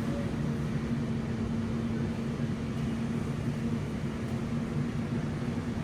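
Steady low mechanical hum with a faint steady tone: the background noise of a store.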